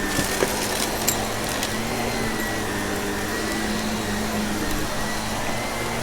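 Vacuum cleaner running steadily with a hum and a high whine, a few sharp clicks in the first second or so as crunchy debris is sucked up.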